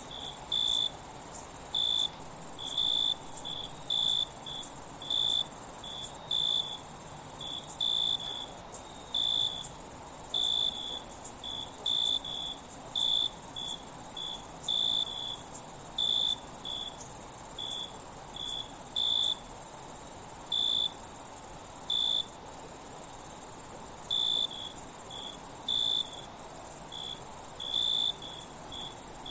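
Night insect chorus: a steady high-pitched insect hum with crickets chirping irregularly over it, about one or two chirps a second. A few brief dropouts break the sound.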